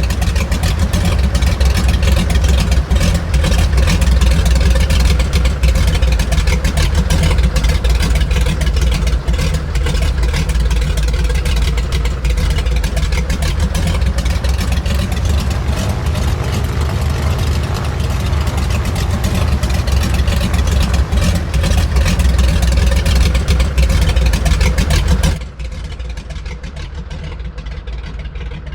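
Grumman Goose's twin Pratt & Whitney R-985 nine-cylinder radial engines running loudly, with a dense, rapid pulsing beat. About 25 seconds in, the sound drops abruptly to a quieter, duller level.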